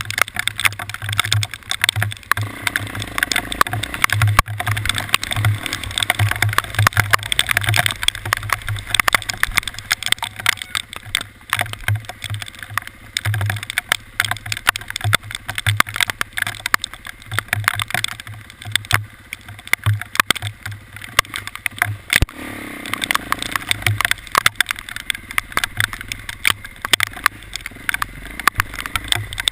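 A vehicle running, with a low pulsing drone under noise and dense, irregular sharp clicks and rattles throughout.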